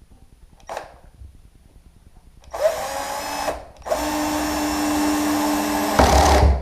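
Power drill-driver driving a self-tapping screw through a door hinge into wood: a short run, then a longer steady whine that turns heavier and louder just before it stops, as the screw seats.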